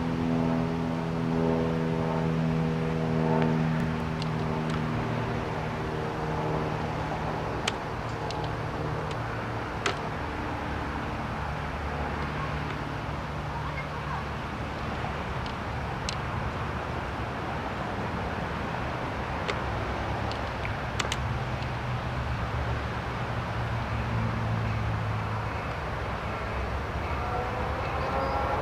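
Approaching Amtrak bi-level passenger train, its diesel locomotive running in the distance over a steady rumble of background traffic, with a few short sharp clicks. A rising engine note enters near the end as the train nears.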